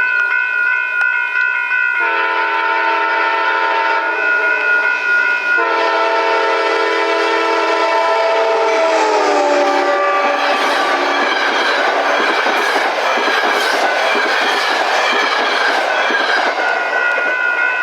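A train blowing its multi-note horn as it approaches, the chord dropping in pitch as it goes by, followed by several seconds of loud wheel-and-rail rush and clatter as the cars pass. A steady high warning tone sounds at the start and returns near the end.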